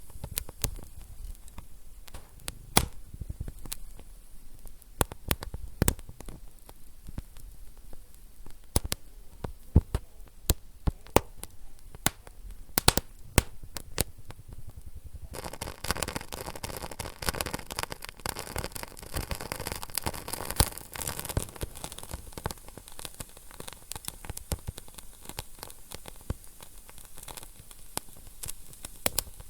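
Wood fire in a fireplace crackling, with frequent sharp pops and snaps. About halfway through, a steady hiss joins the crackling and stays.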